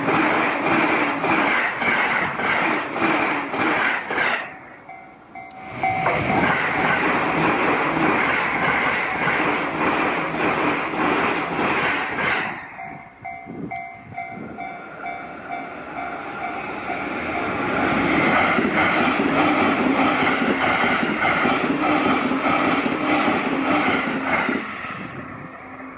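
JR East E657 series electric limited express trains passing at high speed, a loud rush of wheels on rail and air, with rapid wheel clacks. A level crossing warning bell rings with a steady pulsing tone, heard plainly in two short lulls between passes.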